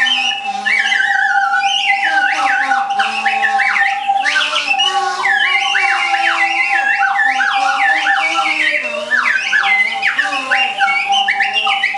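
Plastic slide whistle played in fast swoops, gliding up and down over and over. Beneath it a steady high tone holds until near the end.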